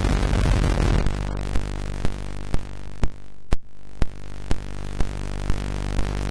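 Electronically generated drone of many steady tones layered together, heaviest in the low end. From about a second and a half in it is broken by a sharp click about twice a second.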